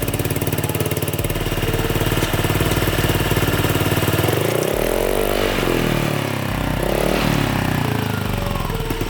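Scooter engine idling through an aftermarket slip-on silencer, blipped twice: the revs rise and fall about four seconds in and again about seven seconds in.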